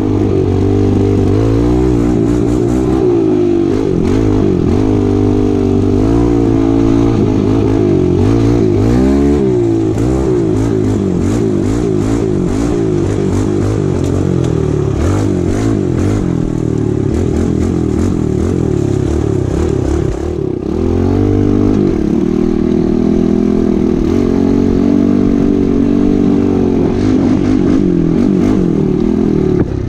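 Pit bike engine revving hard as it is ridden over rough dirt, the pitch rising and falling every second or two, with clattering knocks throughout. The revs drop briefly about twenty seconds in.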